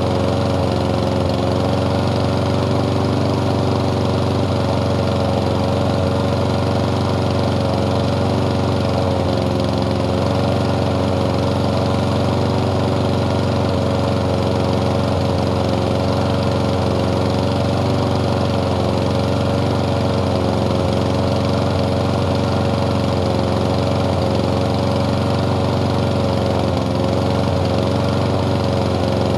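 Small lawn mower engine running at a steady speed.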